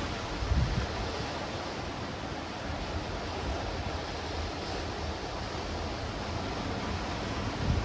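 Sea waves washing steadily against a rocky shore of black rocks and stones, a continuous surf hiss. Two brief low thumps break through it, about half a second in and again near the end.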